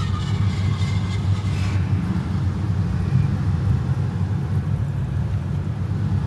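Ford Crown Victoria Police Interceptor's 4.6-litre V8 idling, a steady low rumble, with some fainter higher-pitched noise in the first two seconds.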